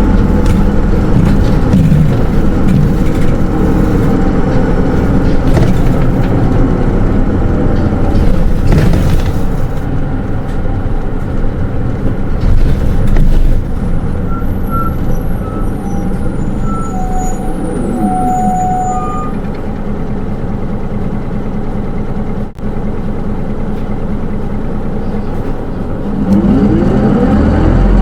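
Hino Rainbow II SDG-KR290J1 bus with automatic transmission, heard from inside the cabin: its diesel engine and drivetrain run as the bus travels. About halfway through it slows with a few short high squeals from the brakes, then idles more quietly for several seconds. Near the end the engine revs rise again as it pulls away.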